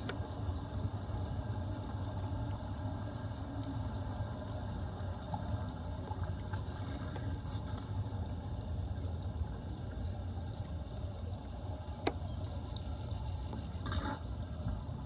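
Floodwater draining into a street drain with a steady low rushing. There is a sharp click about twelve seconds in and a short splash near the end.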